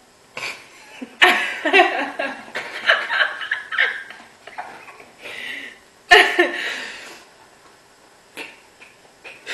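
A woman laughing in several bursts, the longest in the first few seconds.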